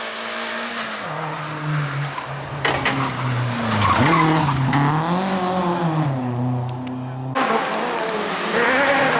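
Rally car engine revving up and down as the car slides through a corner, with tyre skid noise over it for several seconds in the middle. The sound changes abruptly about seven seconds in, and another engine note follows.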